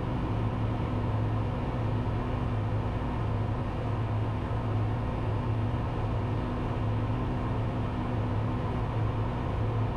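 Cessna 172's piston engine and propeller droning steadily, heard from inside the cabin: a constant low hum with hiss over it, no change in power.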